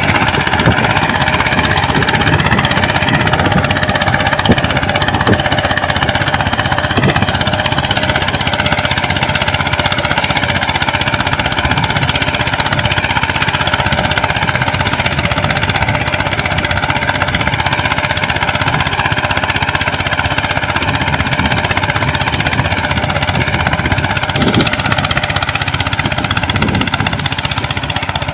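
Engine of a homemade mini tractor running steadily with a rapid, pounding chug.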